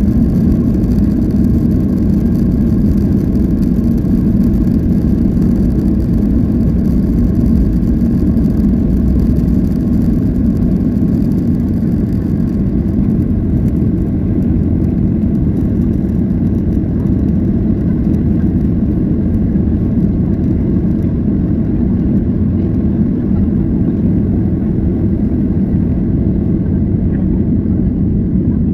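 Steady low rumble like a running engine or vehicle, unbroken throughout, in audio sped up to triple speed.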